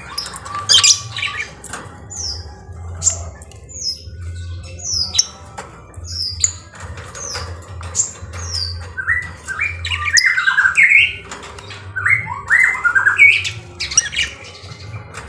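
Lovebirds calling with short, shrill squawks and chirps, scattered at first and then a dense run of rapid chattering calls in the second half.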